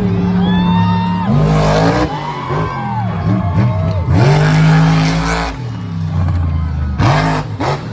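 Monster truck engine revving hard and repeatedly, its pitch rising and falling with the throttle. Three rushing bursts of noise come about a second in, around four seconds in and near the end.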